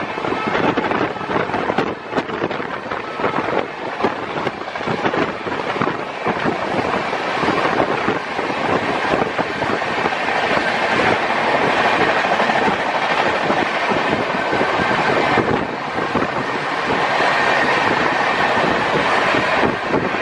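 Two Indian Railways trains of LHB coaches running side by side at speed, heard from an open coach door. Their wheels rumble steadily on the rails with rapid clickety-clack from the rail joints, and a high ringing tone grows louder over the last few seconds.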